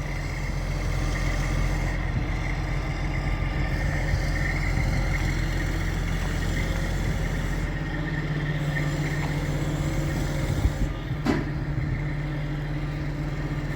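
Crane's diesel engine running steadily under load while it lifts a building, a low drone with a faint high whine over it. There is one brief sharp sound about eleven seconds in.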